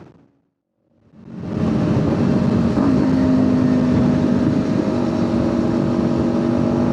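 Kawasaki Ninja 500 parallel-twin engine holding a steady cruise with heavy wind noise on the microphone; the sound fades out to silence right at the start and fades back in within about a second and a half, at an edit cut. About three seconds in the engine note steps up slightly as throttle is added.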